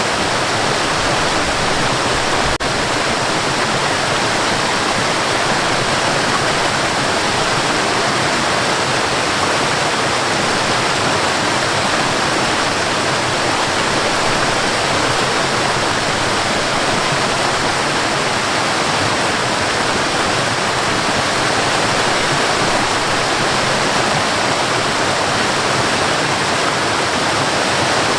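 Waterfall: water falling and rushing in a steady, full, unbroken roar of white noise.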